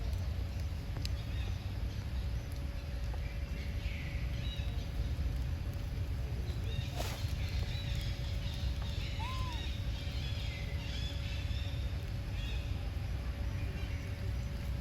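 Outdoor ambience: a steady low rumble with scattered high chirping calls throughout and a faint steady hum. There is a single sharp click about halfway through.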